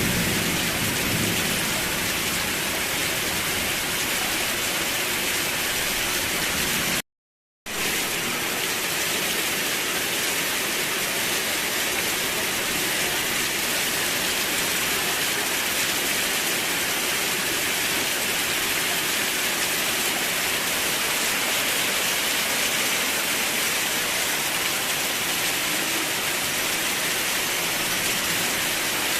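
Steady, even rain hiss, with a low rumble of thunder fading out at the very start. About seven seconds in, the sound cuts out completely for about half a second, then the rain resumes unchanged.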